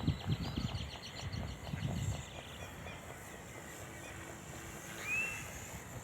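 Wind buffeting the microphone in gusts over the first two seconds, then easing, with a faint rapid ticking in the first second or so and one short high chirp about five seconds in.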